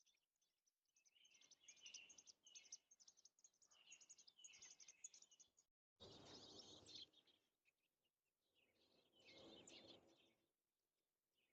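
American robins at the nest chirping faintly, in four short bouts of high chirps.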